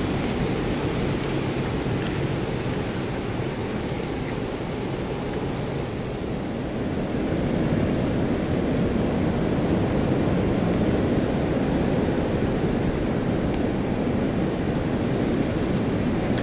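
Hurricane wind, a steady low rushing that grows louder about halfway through.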